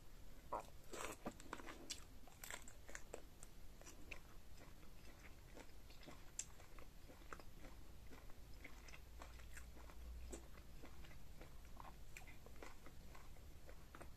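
Close-miked eating sounds as seafood in sauce is bitten and chewed, with small wet crunches and clicks. They come thickest in the first few seconds, then settle into slower, scattered chewing.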